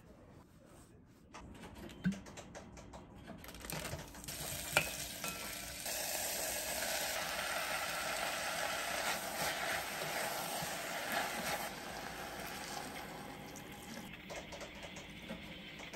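Soaked seaweed sizzling in a hot cast-iron pot as it is sautéed and stirred with a wooden spoon, the first step of Korean seaweed soup. The sizzle builds about four seconds in, just after a sharp knock, and dies down over the last few seconds.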